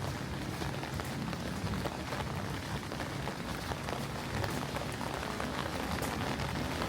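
Steady rain falling, a constant patter of many small drops.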